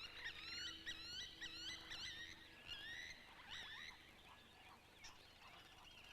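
Several wetland birds calling over one another, with quick, repeated chirping notes that are busiest in the first two seconds, then thin out to scattered calls.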